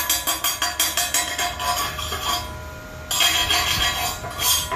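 Chipping hammer rapidly tapping slag off a fresh 7018 stick-weld bead, about six or seven sharp metallic clinks a second, then about three seconds in a second and a half of continuous scraping on the metal.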